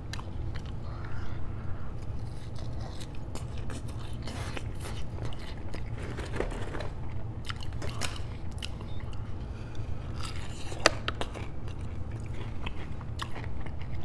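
A person chewing crinkle-cut fries and fried chicken fingers close to a clip-on microphone: wet chewing with crunches and mouth clicks, over a steady low hum. One sharp click stands out about eleven seconds in.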